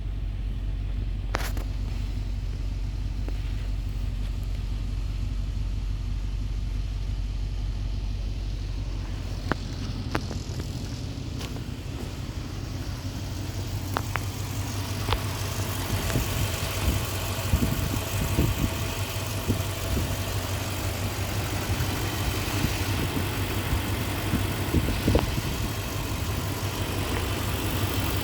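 2003 Toyota Tundra engine idling steadily, with a few sharp clicks along the way and some uneven low thumps in the second half.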